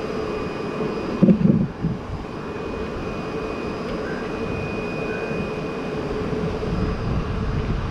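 Steady mechanical drone with a constant low hum and a faint high whine, and a brief louder low sound about a second in.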